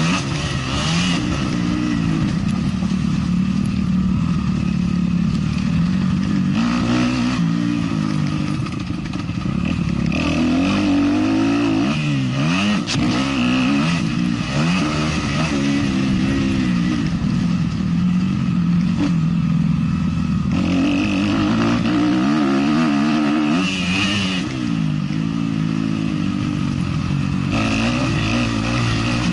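A 450 motocross bike's engine ridden hard around a dirt track, its revs climbing and dropping again and again as the throttle is opened and shut through the corners and jumps.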